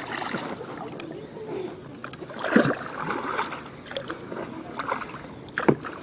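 Floodwater sloshing and splashing, with two sharper splashes or knocks about three seconds apart; the first is the loudest.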